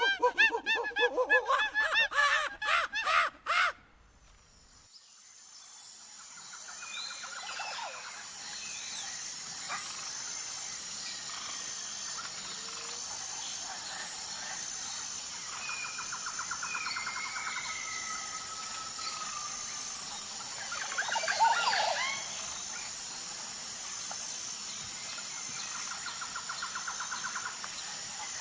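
Loud, harsh calls repeated rapidly for the first few seconds, then cut off. After a brief lull, a wild soundscape fades in: birds chirping, with short whistled glides and repeated trills over a steady high hiss. A louder flurry of calls comes a little past the middle.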